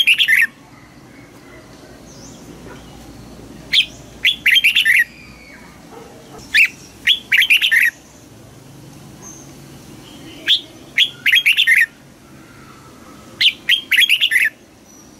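Red-whiskered bulbul singing: loud, short phrases of quick chirping notes, one ending just at the start and four more repeated about every three seconds.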